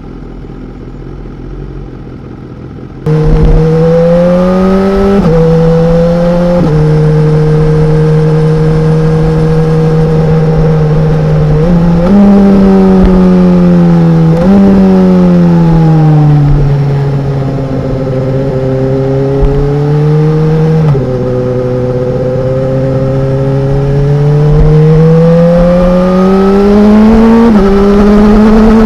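2016 BMW S1000R's inline-four engine running under way. It is quieter for the first few seconds, then suddenly loud, with the pitch climbing and then dropping sharply at each gear change. Several times it jumps up and sinks slowly as the bike slows and speeds up again.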